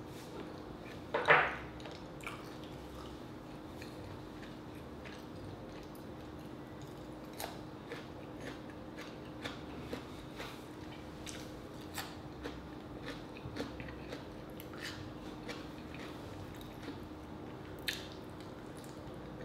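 A person chewing and biting rotisserie chicken, with small wet mouth clicks and smacks scattered throughout. One loud crunchy bite comes about a second in, and another sharp bite near the end.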